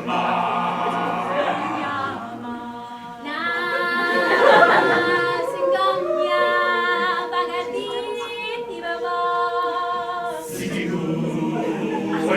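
An a cappella vocal group singing in harmony, several voices holding sustained chords, with a short lull a couple of seconds in.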